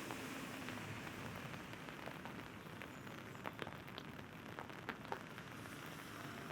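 Steady rain falling, with single drops ticking sharply on an umbrella overhead, clustered mostly in the middle.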